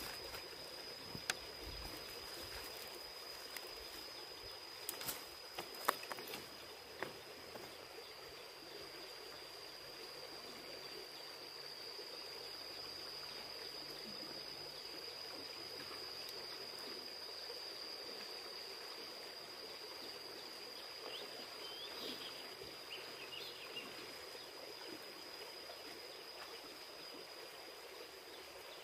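River water flowing steadily, with a steady high-pitched tone running over it and a few sharp clicks about five to six seconds in.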